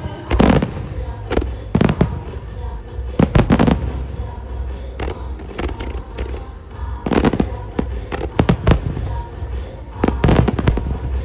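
Aerial firework shells bursting in a musical fireworks show: sharp booms every second or so, some in quick pairs and clusters, over pop music from loudspeakers with a steady bass beat.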